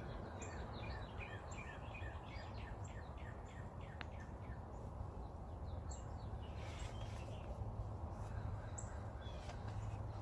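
A small bird singing: a quick run of short falling chirps over the first few seconds, then a few scattered calls, over a steady low background hum.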